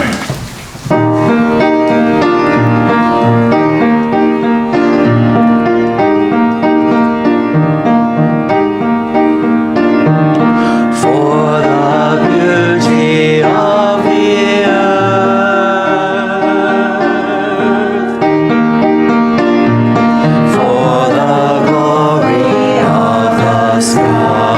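Church anthem starting about a second in: a piano plays sustained chords while a choir sings.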